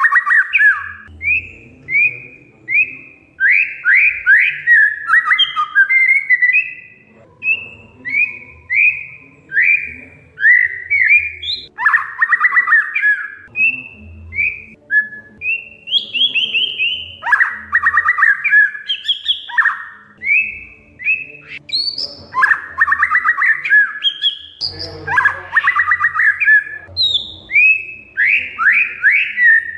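Oriental magpie-robin singing without pause: varied short whistled notes and sliding phrases, broken every few seconds by bursts of harsh, rapid chattering.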